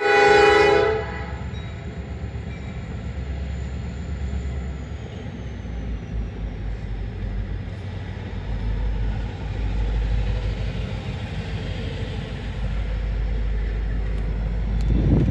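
Norfolk Southern diesel freight locomotive's horn sounding briefly, cut off about a second in, followed by the steady low rumble of the locomotives and rail cars on the track.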